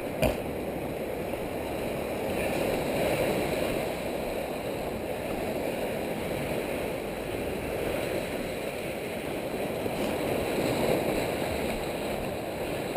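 Steady rushing noise of ocean surf and wind along rocky sea cliffs.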